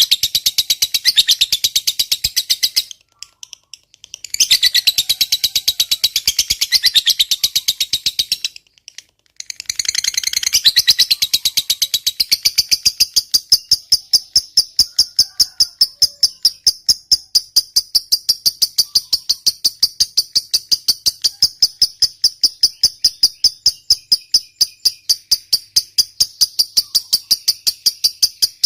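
Lovebird's long, rapid, high-pitched chattering trill (the 'ngekek panjang' call). It breaks off twice in the first ten seconds, then from about twelve seconds in runs on as a steadier, evenly pulsed trill.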